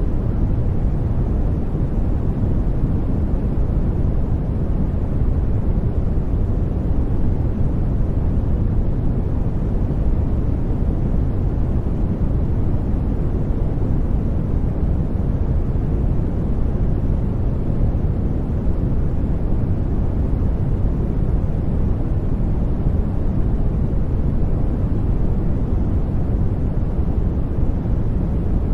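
Steady brown noise: a deep, even rumbling hiss, strongest in the lows and falling away toward the highs, with no changes.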